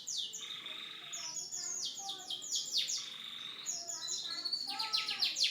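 Canary singing: rapid trills of high, quickly falling whistled notes, twice broken by a harsh buzzy phrase lasting about half a second.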